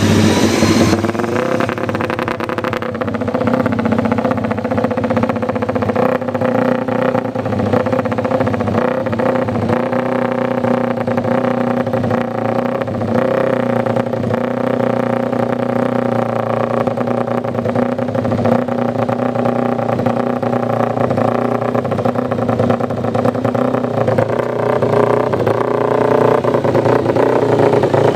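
Motorcycle engine running through its exhaust, mostly at a steady idle with small rises in revs. The sound changes about a second in, as from one bike to the next.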